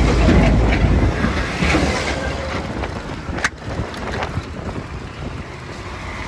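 Wind rushing over the microphone of a moving motorcycle, with road and engine noise beneath it, slowly growing quieter. One sharp click about three and a half seconds in.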